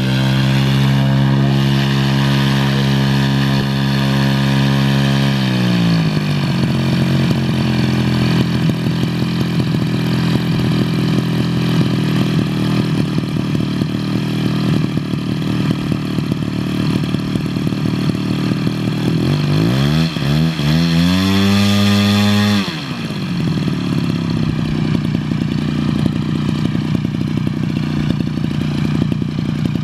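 Engine of a one-third-scale Sopwith biplane model on a ground test run. It is held at high revs, drops to idle about five seconds in, runs up again at about twenty seconds, then falls back to a steady idle.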